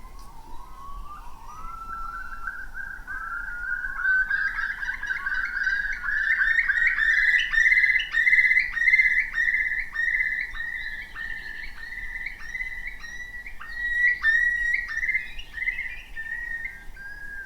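A bird singing one long series of clear whistled notes. They climb in pitch over the first few seconds, then repeat at a steady pace of about two a second.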